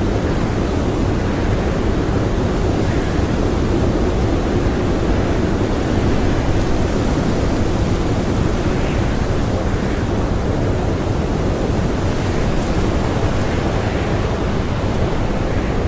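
Blizzard wind blowing hard and without let-up, a dense steady rush that is heaviest in the low end.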